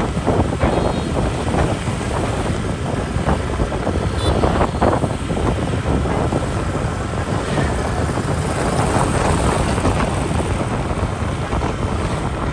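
Wind rushing over the microphone on a moving motorbike, over the running of motorbike engines and dense traffic noise.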